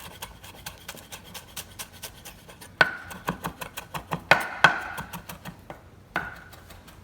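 Kitchen knife chopping cilantro on a cutting board: a quick run of light strikes, about six a second, with several louder knocks that ring briefly.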